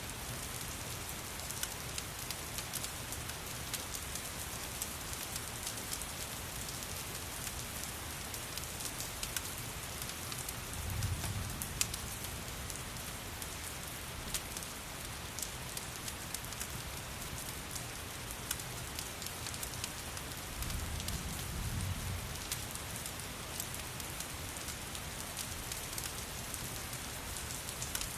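Steady rain mixed with a crackling wood fire, its sharp little pops scattered over the hiss of the rain. Two low rumbles swell and fade, about eleven seconds in and again about twenty seconds in.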